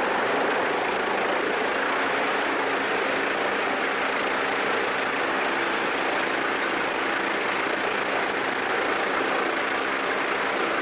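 Steady machinery drone at an even level, with a few low steady tones under a broad hiss, running without a break.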